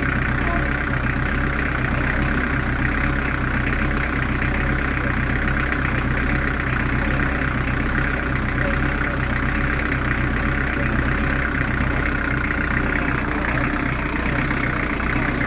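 Narrowboat's newly fitted Beta Marine diesel engine idling steadily on its first run, sounding quiet.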